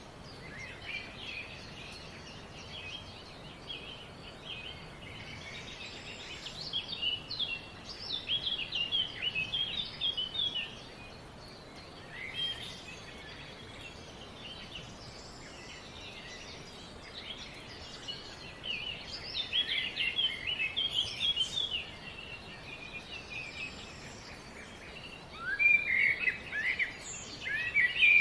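Several songbirds chirping and trilling in rapid bouts of short high notes, over a steady faint background hiss.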